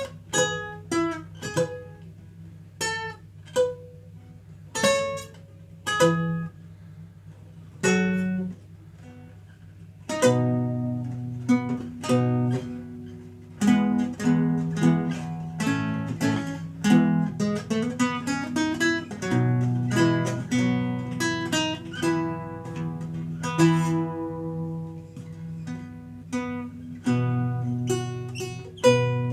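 Renaissance lute being played. Sparse single plucked notes come about one a second for the first ten seconds or so, then fuller, faster passages with chords and running notes follow.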